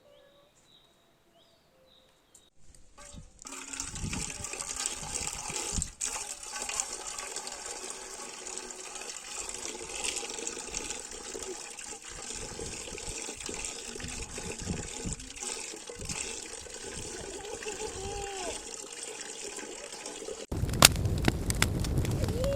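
Water sloshing and splashing steadily for most of the stretch, with soft low thuds. A few faint bird chirps come first, and near the end a louder crackling sound with sharp clicks takes over.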